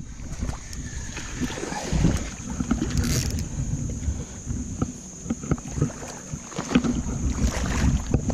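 Water splashing and sloshing as a hooked pike is fought and landed in a shallow river, with wind rumbling on the microphone.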